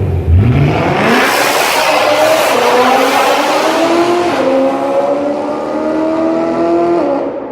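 BMW M3 E92's 4.0-litre V8 through an HMS aftermarket exhaust, very loud under hard acceleration. The engine pitch climbs, drops at an upshift about four and a half seconds in, climbs again, and falls away near the end.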